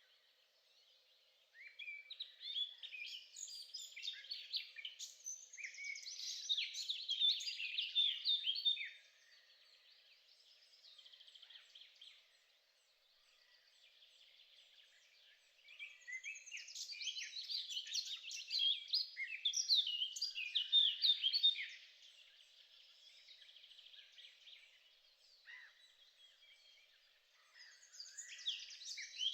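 A songbird singing, three long phrases of rapid, varied chirps and trills, each lasting several seconds, with pauses between them.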